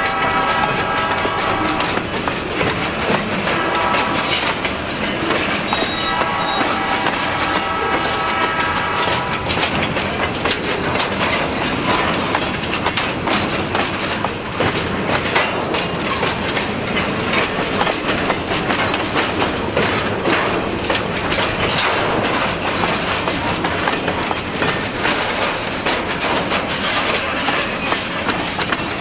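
Freight train of the Escanaba & Lake Superior Railroad rolling past with a steady clatter of wheels over the rails. In the first ten seconds the locomotive horn sounds three times: a short blast between two longer ones, the last the longest.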